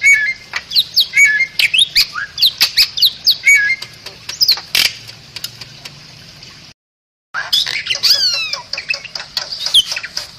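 Bali myna singing a rapid string of sharp falling whistles, chirps and harsh squawking notes. The song breaks off into total silence for under a second, about seven seconds in, then resumes with quick downward-sweeping whistles.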